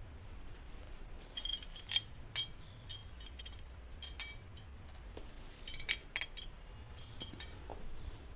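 A scattering of light metallic clinks and taps, some ringing briefly, in small clusters over a faint steady high hiss. No engine is running.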